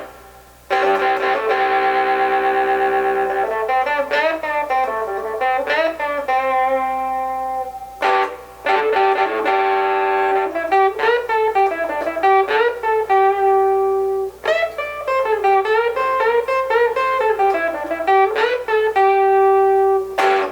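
Overdriven electric guitar, a Fender Stratocaster on its bridge pickup with the tone control rolled down to 1, playing a repeating riff of held notes and quick runs. The tone is pretty dark, a little too dark.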